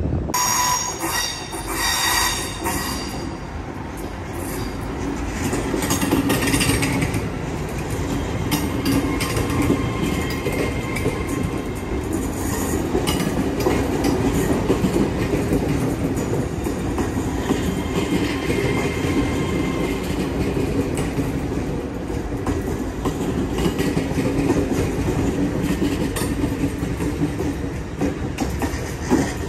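A train running through the station, with steady rumbling and clatter from wheels on rail. High-pitched squealing comes in the first few seconds, and fainter squeals return now and then.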